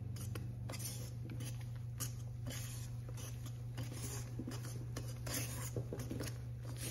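Wire whisk working flour into meringue in a stainless steel bowl: soft scraping and light irregular clicks of the wires against the bowl, over a steady low hum.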